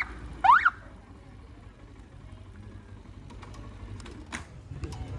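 Short electronic siren chirp about half a second in, its pitch sweeping quickly up and down twice, followed by low street background with a few sharp clicks near the end.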